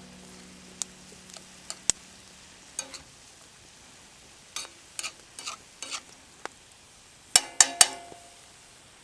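A metal utensil clinking and stirring in metal cookware, with scattered light clicks and then three loud ringing knocks in quick succession near the end.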